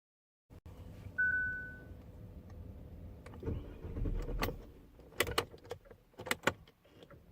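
In a Kia Sportage or Hyundai Tucson that will not start, a single electronic beep sounds about a second in, followed by a low thump and a run of sharp clicks. No engine catches or runs.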